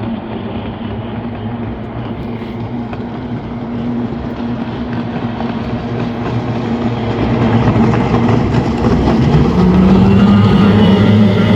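Motorboat engine running steadily and growing louder as the boat comes closer, its pitch stepping up slightly about nine seconds in.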